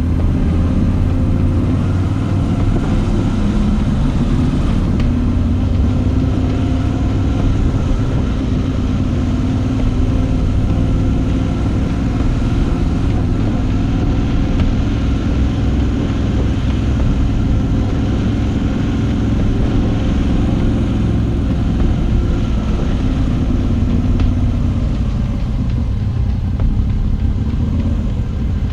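Moto Guzzi V85TT's air-cooled transverse V-twin engine running while the motorcycle is ridden, holding fairly steady revs.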